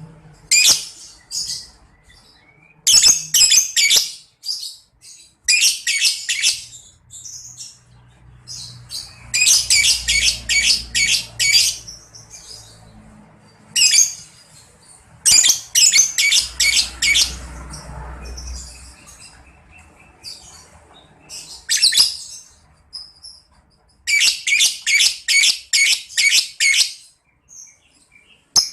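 Lovebird ngekek: bursts of fast, high, rattling chatter, each one to three seconds long, repeated about nine times with short pauses between them.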